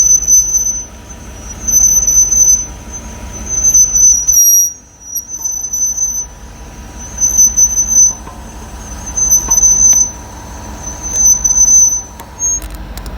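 High-pitched brake squeal from the right rear brake of a car running on a lift, coming and going in pulses every second or two over a steady low drivetrain rumble. It persists on that corner even after the pads were removed and sanded, which cured the front squeal.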